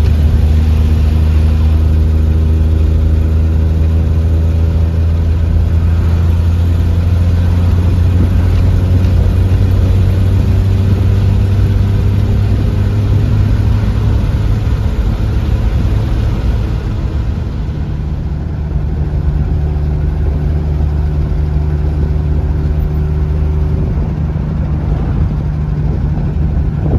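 A car engine running steadily, a low drone whose pitch creeps slightly upward through the middle, as when the car is driving along.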